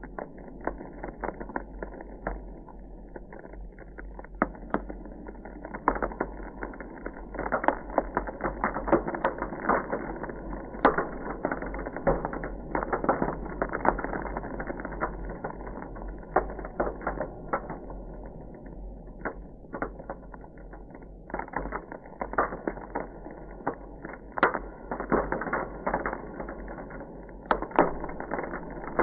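Ice crackling: a dense, irregular run of small cracks and clicks, with louder snaps scattered through.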